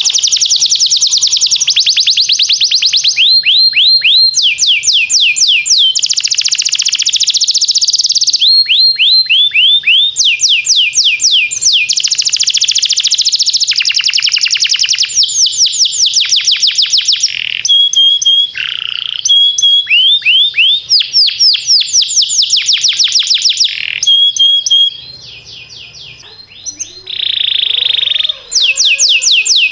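Domestic canary singing a long song of fast trills and rolls, each made of rapidly repeated high sweeping notes, with some short steady notes in between. The song drops away briefly about 25 seconds in, then resumes.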